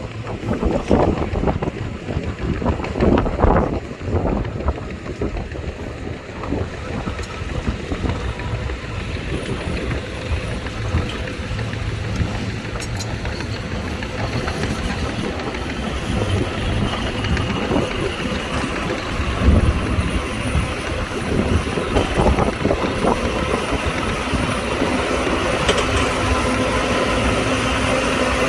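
Diesel engine of heavy earthmoving machinery running steadily, with wind buffeting the microphone in the first several seconds; the engine grows a little louder toward the end.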